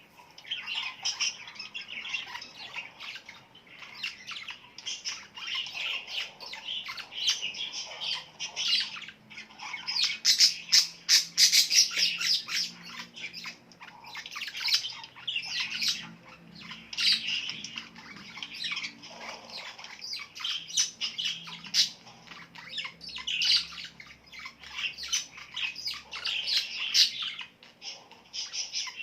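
A flock of small birds chirping and squawking without pause, a dense chatter of short, overlapping calls that is busiest about ten to twelve seconds in.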